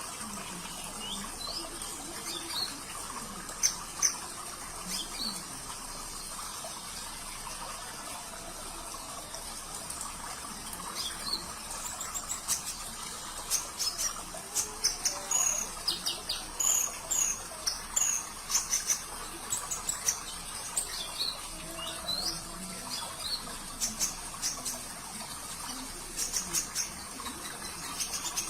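Konin (kolibri ninja, a small sunbird) singing in quick, high, rapid-fire chirps and twitters over the steady sound of trickling water. The song is sparse at first and turns dense and continuous about halfway through.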